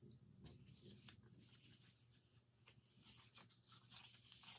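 Near silence with faint rustling and soft ticks of tarot cards being handled.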